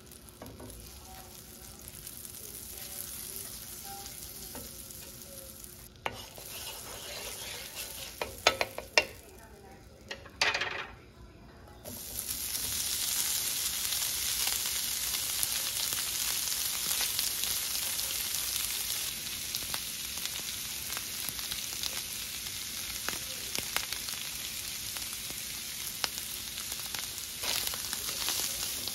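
Butter sizzling faintly on a hot cast-iron griddle, a few sharp knocks, then a loud steady sizzle as shredded cooked chicken hits the pan about twelve seconds in. It is stirred with a wooden spoon, which scrapes and clicks against the pan.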